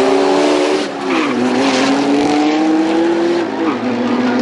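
Car engine accelerating at full throttle on a drag-strip run. Its pitch climbs through the gears, dropping sharply at an upshift about a second in and again near the end.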